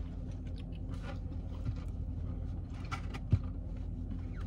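Steady low hum of an idling car, with small scattered clicks and one short knock about three seconds in from eating out of a takeout container.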